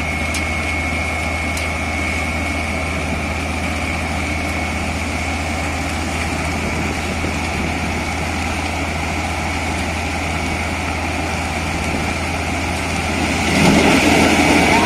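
Borewell drilling rig's engine running steadily, a constant low hum with a thin high whine over it. About 13 seconds in it gets louder, with a rush of added noise.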